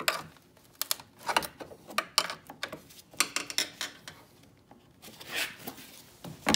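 Plastic trim clips and grille pieces of a Ford F150 being pried loose by hand: irregular clicks and knocks of hard plastic, with a short scrape about five seconds in.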